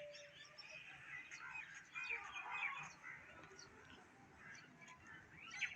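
Birds chirping, many short faint calls overlapping.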